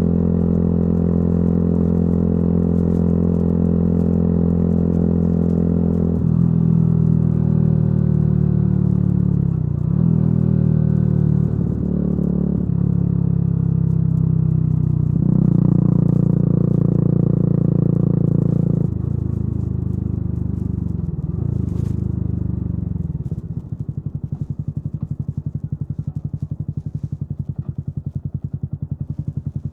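Yamaha YZF-R125's single-cylinder four-stroke engine through a modified exhaust, running under way with changes in revs, then slowing and settling to a quieter, evenly pulsing idle about 23 seconds in.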